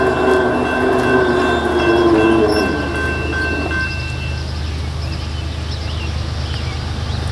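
A train receding down the line out of sight: steady high tones and a rumble fade out about four seconds in, leaving a low steady rumble.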